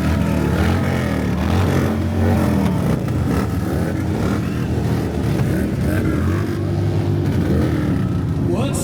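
Many motorcycle engines revving at once, overlapping rises and falls in pitch over a steady rumble: the rally crowd's "thunder" between songs. A band starts playing right at the end.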